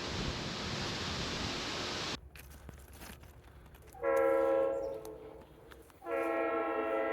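Amtrak Downeaster passenger train sounding its horn close by: a short blast about four seconds in, then a longer blast from about six seconds in. Before the horn, a steady rushing noise cuts off abruptly about two seconds in.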